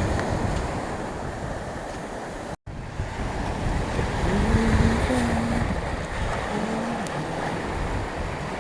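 Sea waves washing on a beach with wind buffeting the microphone, a steady rushing noise with heavy low rumble. The sound drops out completely for a moment about two and a half seconds in, and a few faint pitched tones come through for a few seconds past the middle.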